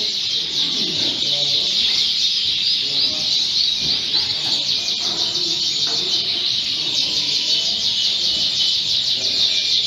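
Many Fife canaries singing and chirping at once, a dense, steady chorus of quick, high twittering notes.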